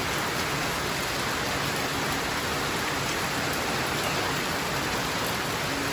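Heavy rain coming down steadily, an even hiss with no breaks.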